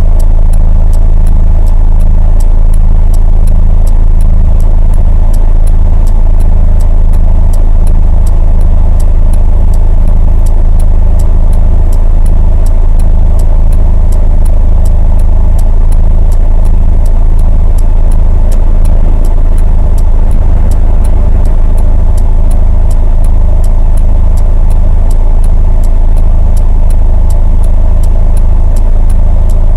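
Steady, very loud low rumble of a vehicle picked up by a dashcam, with a faint, even ticking about three times a second.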